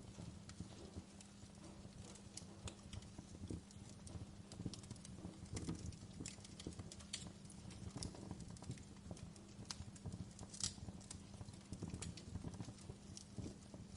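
Wood fire crackling in a fireplace: irregular snaps and pops over a low steady rumble.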